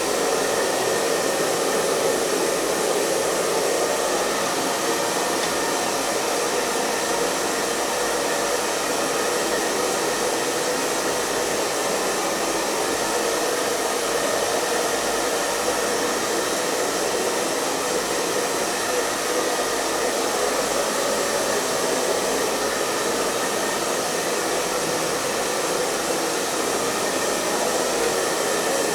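Hair dryer running steadily: an even, unchanging rush of blown air and motor, fullest in the low-middle range.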